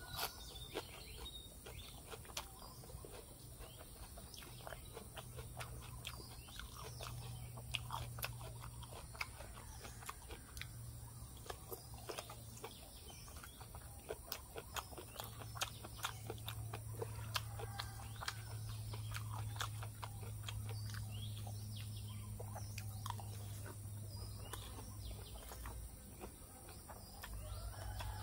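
Close-miked chewing of a mouthful of spicy papaya salad with rice noodles and pig ear: many small wet clicks and smacks, with noodles sucked in near the end. Birds chirp faintly in the background over a low steady hum.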